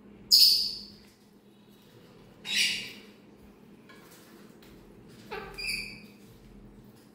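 A parrot gives three short, loud, harsh squawks a couple of seconds apart; the last is a double call with a clearer pitched tone.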